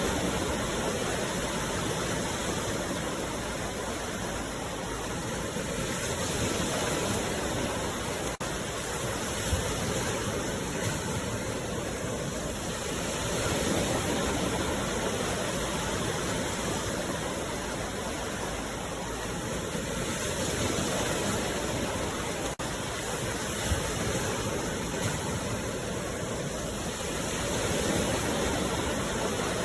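Sea waves washing ashore: a continuous rush of surf that swells and eases about every seven seconds.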